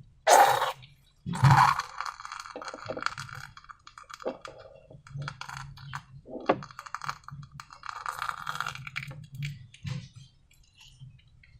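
Slime and balloons being handled: two loud, sharp crackling noises in the first two seconds, then a run of small crackles and clicks.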